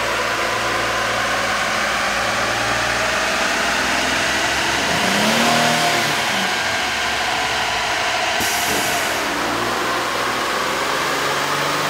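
Jeep Wrangler 3.8-litre V6 running on a chassis dynamometer with its stock air intake: a steady engine drone over a broad hiss, with the pitch briefly rising and falling about halfway through.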